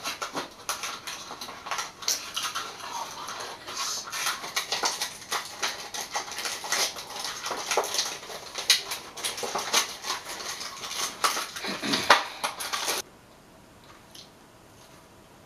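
A person chewing food close to the microphone: many quick, irregular mouth clicks and smacks. The sound cuts off abruptly about 13 seconds in, leaving only a faint hiss.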